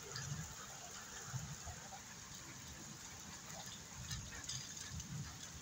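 Steady rain falling, an even hiss with a few faint drop ticks, over irregular low rumbles of wind on the microphone.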